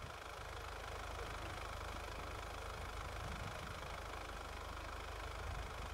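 Steady engine and road noise of an SUV on the move, swelling slightly in the first second.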